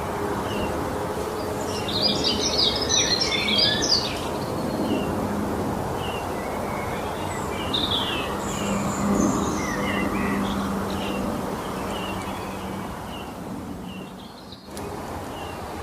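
Songbirds singing in a spring mountain forest: short chirps repeat throughout, with a louder, busier burst of song about two seconds in and another phrase about eight seconds in, over a steady low rushing background noise.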